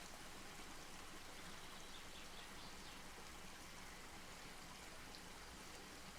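Wood campfire burning: a faint, steady hiss with a few small crackles.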